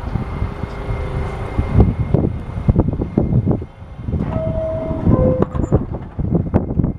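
New York City subway train running through the station, with a heavy rumble and a steady run of knocks as the wheels cross rail joints. A few short squealing tones sound over it, one in the first two seconds and two more around four to five seconds in.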